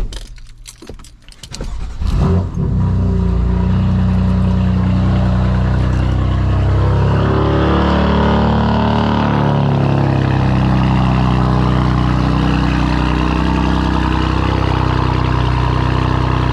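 Car engine cold start: a few clicks, then the engine catches about two seconds in and runs at a super loud, steady cold idle.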